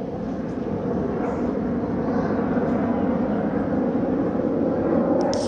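Jet engines of Aermacchi MB-339 aerobatic jets roaring overhead as a steady rush of noise, growing gradually louder.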